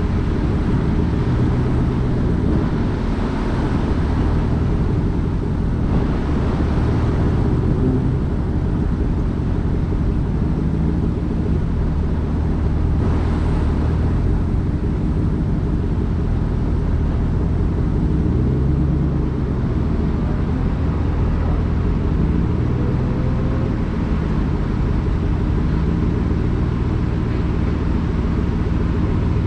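Car engine running steadily, a low hum with slight wavering in pitch, heard from inside the car.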